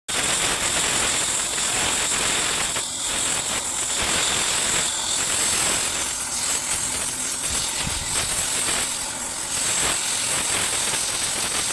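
Oxy-fuel gas cutting torch hissing steadily as it cuts through a metal band, with a strong high hiss.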